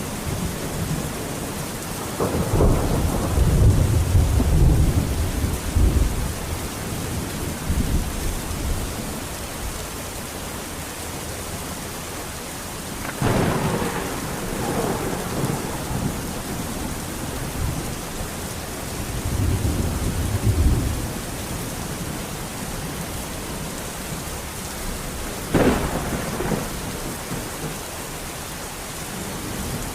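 Steady rain with a thunderstorm: a long rolling rumble of thunder a couple of seconds in, sharp thunder cracks about 13 and 25 seconds in, each trailing into a rumble, and another low rumble around 20 seconds.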